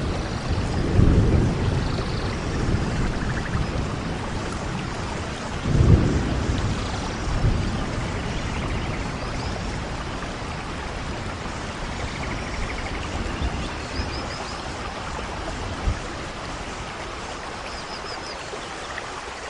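Steady heavy rain, with deep rolls of thunder rumbling about a second in and again around six seconds in.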